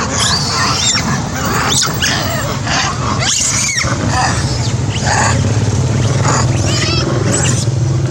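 Monkey screaming: many short, shrill calls that glide up and down, over a steady low hum.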